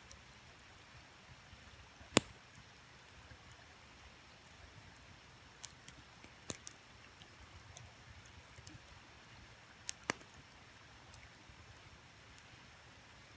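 Wood campfire crackling: scattered sharp pops at irregular intervals, the loudest about two seconds in, over a faint steady rush of creek water.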